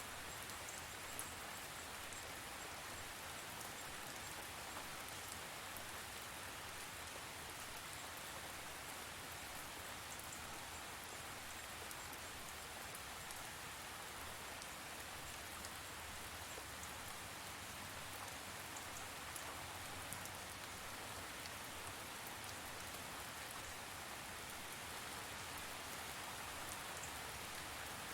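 Steady rain falling, an even hiss with small drop ticks scattered through it.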